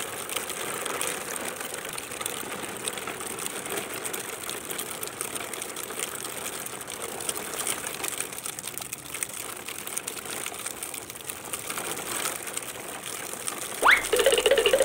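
Plastic toy trucks rolling over concrete paving: a steady rattle of small clicks from hard plastic wheels on stone. Near the end a brief, louder high-pitched sound sweeps up sharply.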